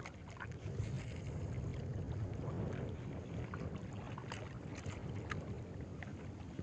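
Small waves lapping and splashing at the water's edge, many small irregular splashes over a steady low rumble of wind on the microphone.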